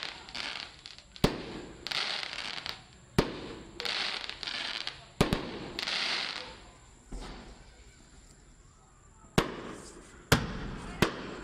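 Aerial fireworks shells bursting: about six sharp bangs, each followed by a second or so of crackling hiss from the glittering stars. There is a lull in the middle, then three bangs in quick succession near the end.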